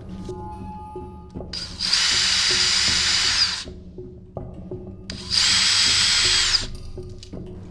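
Small electric power tool run twice in short bursts, about two seconds and then a second and a half, its high motor whine settling as it spins up and dropping as it winds down. Background music with a steady beat underneath.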